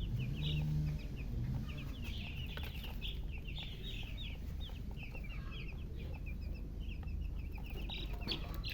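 A group of newly hatched domestic chicken chicks chirping loudly and continuously, a rapid stream of short high peeps. A lower, deeper call sounds briefly in the first second, over a steady low hum.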